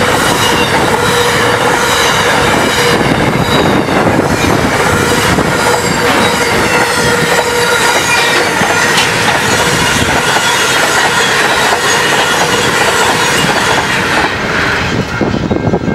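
Double-stacked container freight train passing fast: a loud steady rumble of steel wheels on rail with a rhythmic clatter and steady high wheel squeal. About fourteen seconds in the last wagon passes, and the sound drops and loses its hiss as the train moves away.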